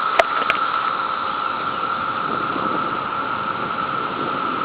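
Chorus of mating cicadas, a steady buzzing drone held on one high pitch, in what the speaker calls their quiet phase. Two short clicks sound near the start.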